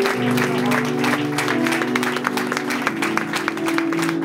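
Audience applauding over the band's final held chords as the song ends.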